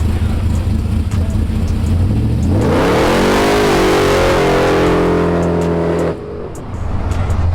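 Car engine idling with a low rumble, then revved up hard about two and a half seconds in and held at high revs for around three seconds before being let off suddenly, dropping back toward idle.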